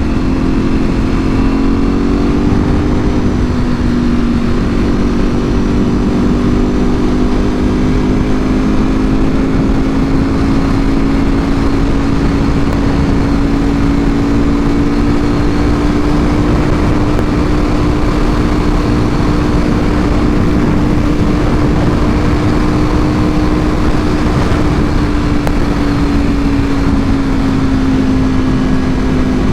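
Ducati Panigale V4R's V4 engine through an Akrapovic full exhaust, running at a steady cruise. Its pitch rises slightly a couple of seconds in and eases down near the end.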